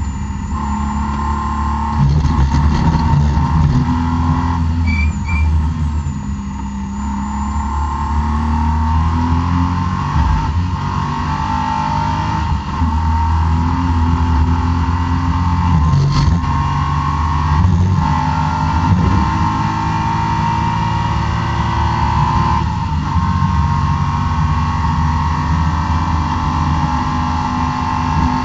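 BMW E36 M3 straight-six engine being driven hard on a race track, revving up and dropping back repeatedly as it accelerates, shifts and brakes.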